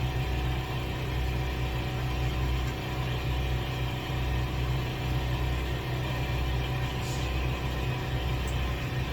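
A machine running with a steady low hum and a light hiss above it.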